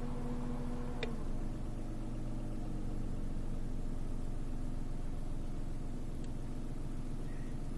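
Snowmobile engine running steadily; its note drops about a second in, then holds as a low hum, with a few faint ticks.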